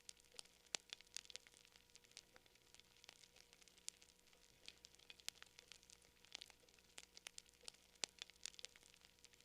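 Campfire crackling: irregular sharp pops and snaps, several a second, over a faint hiss.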